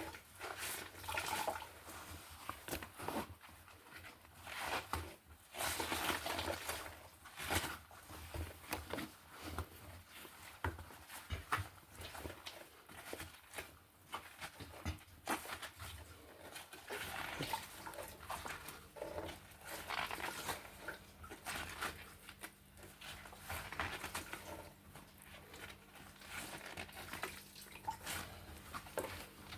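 Water draining from a front-loading washing machine's drain-filter nozzle into a bucket, trickling and splashing unevenly, with small handling knocks. A faint low hum joins about halfway through.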